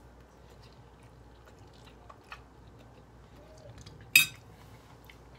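Faint chewing and mouth sounds of a person eating fettuccine alfredo, with one loud, sharp click about four seconds in.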